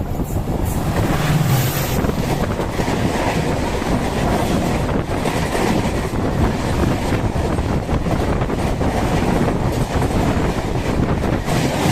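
MEMU electric multiple-unit train running at speed, a steady rumble with the wheels clicking over the rail joints.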